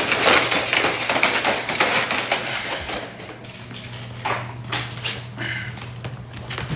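Dogs moving about excitedly, with rustling, scrabbling and clinking that are busiest in the first couple of seconds, then a few separate knocks, over a steady low hum.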